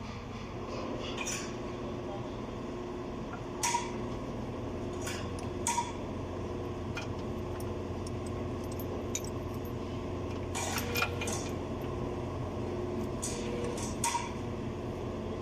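Hand tools clinking and tapping against metal machine parts a handful of times, over a steady machine hum.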